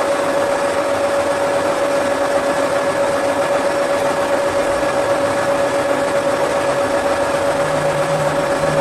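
Workshop machine running steadily with a constant mid-pitched whine over a noisy hum; a lower hum joins near the end.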